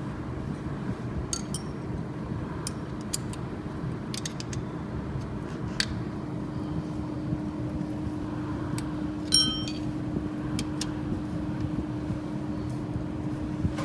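Metal tools clicking and clinking against engine parts over a steady low hum, with one brief ringing metallic clink about nine and a half seconds in.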